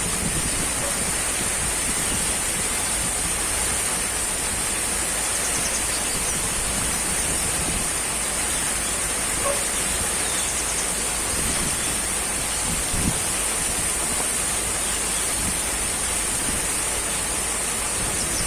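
Continuous, even rushing noise that holds steady throughout, with a bright hiss in the high register.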